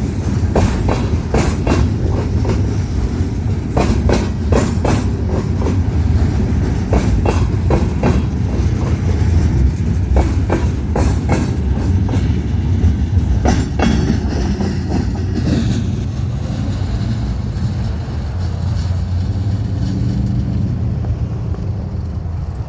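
A train rolling past, its wheels clacking over rail joints in an irregular series of sharp clicks over a steady low rumble. The clacking thins out after about two-thirds of the way through and the rumble eases as the train moves off.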